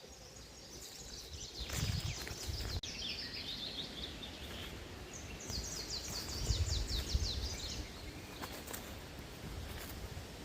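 A songbird singing twice in a forest, each song a quick run of high notes stepping downward and lasting about two to three seconds, with a low rumble underneath.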